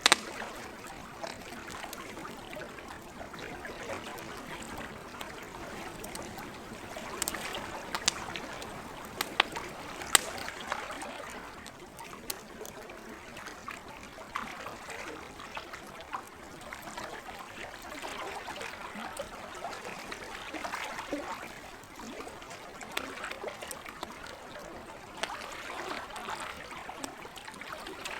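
Lake water lapping in a steady, gently swelling wash, with a wood campfire crackling over it. Sharp pops come now and then, the loudest at the very start and in a cluster about seven to ten seconds in.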